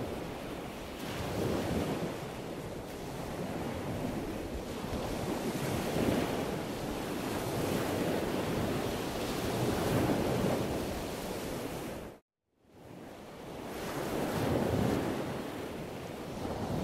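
Sea waves breaking and washing on a rocky shore, swelling and easing every few seconds, with wind buffeting the microphone. About three-quarters of the way through the sound cuts out for a moment, then fades back in.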